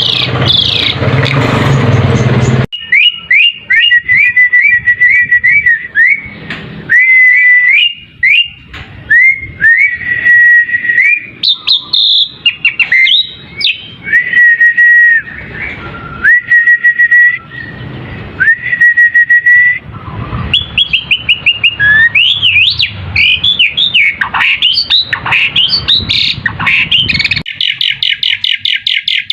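Pied starling (jalak suren) singing loud whistled notes one after another, many held level or ending in a quick upturn. The phrases grow faster and more varied later, ending in a rapid run of repeated notes. It opens with a couple of seconds of harsh, noisy sound.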